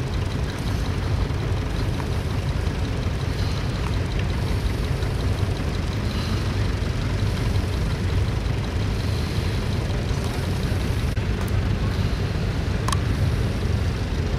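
Tractor engine running steadily with a low rumble; a few faint clicks come near the end.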